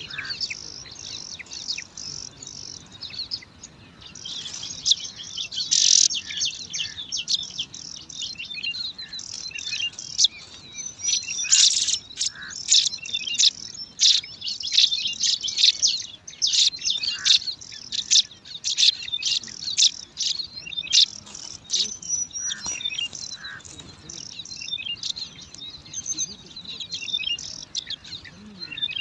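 Bar-winged prinia (ciblek) nestlings begging: a dense, continuous stream of rapid, high-pitched chirps from several chicks at once, busiest in the middle.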